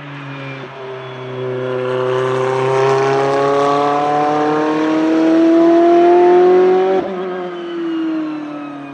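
Ferrari P80/C race car's twin-turbo V8 accelerating hard, its pitch climbing steadily for about six seconds. About seven seconds in the note breaks off sharply and then falls away.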